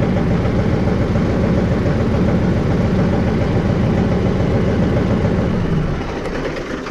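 Mahindra 5555 tractor's diesel engine running steadily at idle, freshly restarted after a failed glow plug relay was replaced. It falls away in level near the end.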